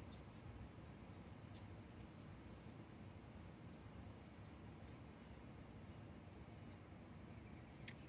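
Four short, high-pitched chirps from a small bird, each a quick downward slide, spaced one to two seconds apart over faint background noise.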